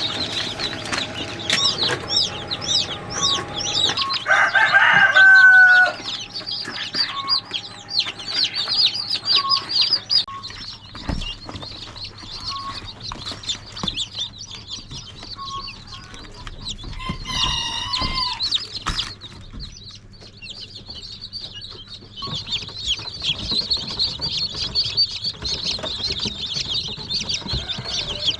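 Chickens clucking and calling, over a dense, constant high chirping. Two louder, longer calls stand out, one about five seconds in and another around seventeen seconds.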